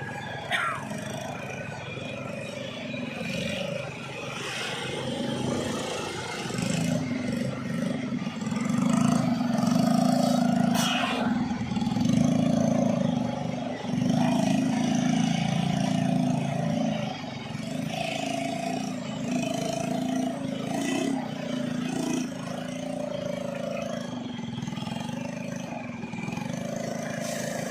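Heavily loaded truck engines labouring up a steep climb, growing louder through the middle as the trucks pass close by and then easing off.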